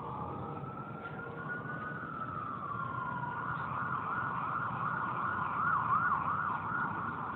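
Emergency vehicle siren sounding at a distance, a slow rising-and-falling wail that switches to quicker up-and-down yelps, over a steady rush of wind.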